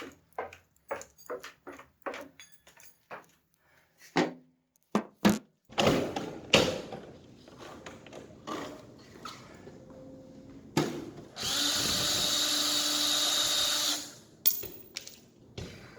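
A run of short sharp knocks and clatter, then a cordless power drill running steadily for about two and a half seconds, removing the fasteners that hold an air-conditioner unit or its bracket to a wall.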